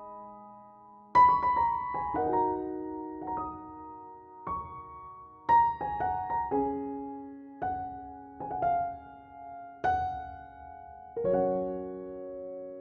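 Background music: slow, soft piano, single notes and chords struck every second or so and left to ring.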